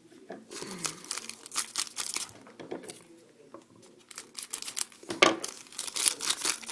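Hockey card pack wrapper crinkling and tearing open, in two flurries of crackling with a sharper crackle about five seconds in.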